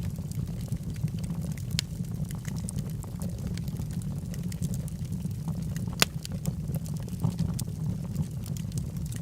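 Wood fire with burning logs crackling: a steady low rumble of the flames under scattered sharp pops and snaps, the loudest pop about six seconds in.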